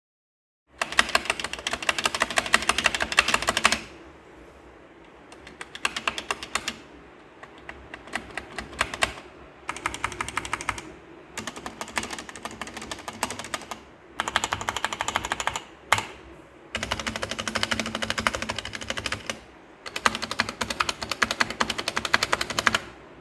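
Paradox Ghost OPT64 optical mechanical keyboard being typed on fast, in several bursts of rapid keystroke clicks separated by short pauses.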